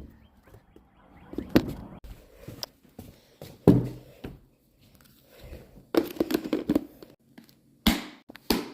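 Scattered thumps and knocks with quiet gaps between them, the loudest a low thump just before the middle and a quicker run of knocks near the end.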